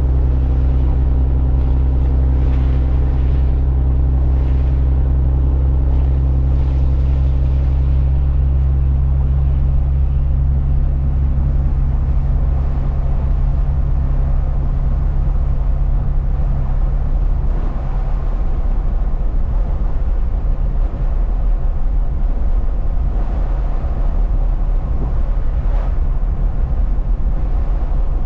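Truck driving along: a steady low engine drone with tyre and road noise. About two-thirds of the way through, the engine hum gives way to rougher road noise.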